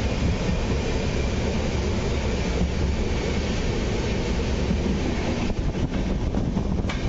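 Karnavati Express passenger coach running at speed, heard from inside the coach: a steady rumble of wheels on rail. Near the end a few short clicks cut through.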